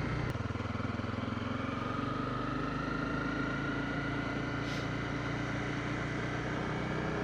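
Motorcycle engine running steadily at low road speed, heard from on the bike.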